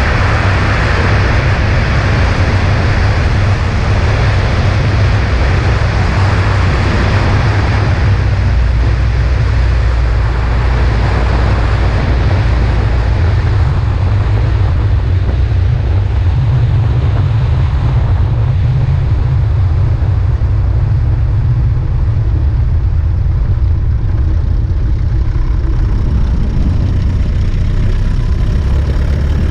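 Cessna 140A's engine and propeller droning steadily in flight, with wind noise rushing over the microphone. The higher rushing hiss eases off gradually through the second half while the low engine drone holds.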